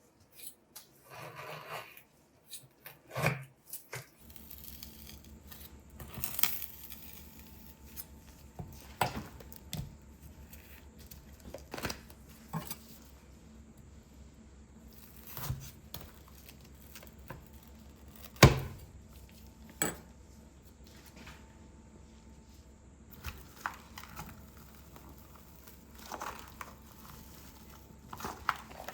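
Scattered clinks and knocks of dishes and utensils being handled, with some crinkling of wrappers, over a faint steady low hum that starts about four seconds in. One sharp knock about two-thirds of the way through is the loudest.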